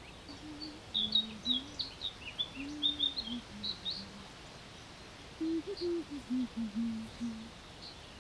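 A songbird singing a quick run of short chirps and whistles for about three seconds. Underneath, a low tone steps up and down in pitch in two stretches.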